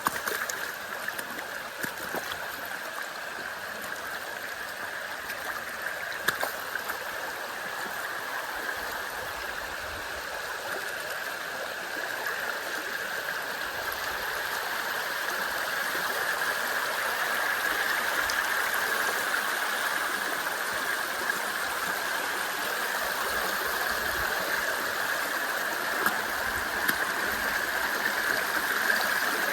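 A small waterfall rushing and splashing in a steady, even wash, growing gradually louder through the second half.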